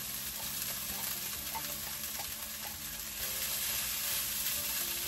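Cooked rice and diced carrot sizzling in a hot nonstick skillet as a spatula stirs through it, with a few light spatula scrapes and ticks against the pan.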